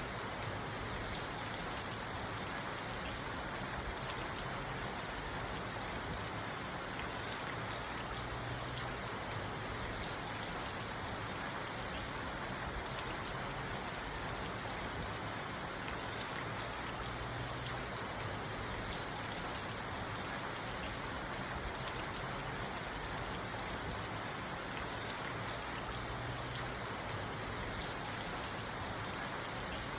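Steady rain drumming on a parked car, heard from inside the car, with no thunder.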